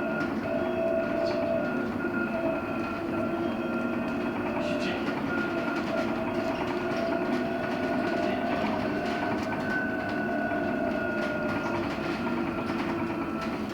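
LiAZ-6274 electric bus running along from inside the cabin: a steady electric drive whine made of several held tones over road and rolling noise.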